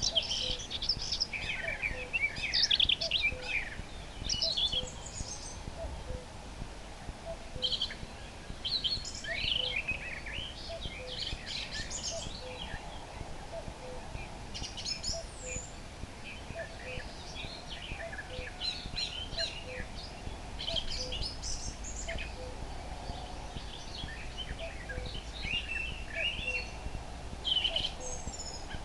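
A common nightingale sings loud, varied phrases of whistles and rapid trills in bursts with short pauses. Behind it, a common cuckoo calls faintly and steadily, its two falling notes repeated about once a second.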